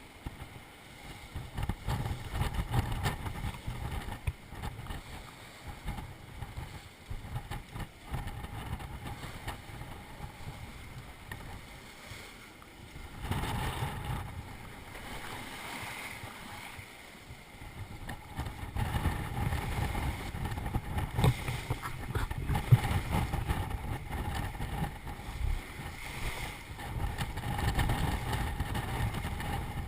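Gale-force bora wind buffeting the microphone in gusts, over the rush of water and waves along a small sailboat's hull. The gusts grow heavier in the second half.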